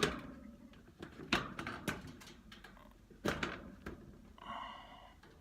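A cardboard-framed furnace air filter being handled and pushed into its slot: several sharp knocks and thuds, with smaller clicks between. A brief pitched squeak about four and a half seconds in.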